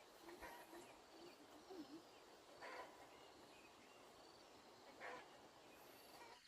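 Near silence: faint outdoor ambience with a few faint animal or bird calls.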